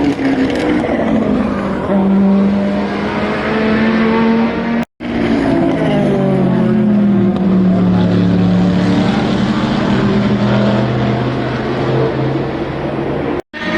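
Endurance race cars' engines at full speed, their pitch sliding down as they go by. The sound cuts out for a split second twice, about five seconds in and near the end, where clips are spliced together.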